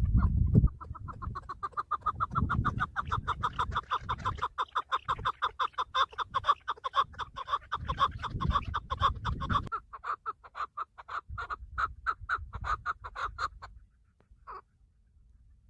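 Chukar partridge calling: a long rapid series of short clucking notes, about five or six a second, that stops near the end, with one last note after it. Low thumps and rumble run under the calls for the first two-thirds.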